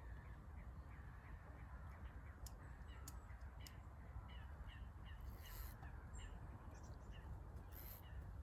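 Faint bird calls, many short chirps repeating a few times a second, over a low steady rumble.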